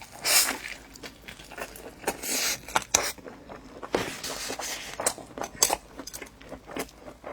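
Close-miked eating sounds: a person biting and chewing fried dough cake with egg and a steamed bun, with scattered sharp clicks and a few longer rustling scrapes.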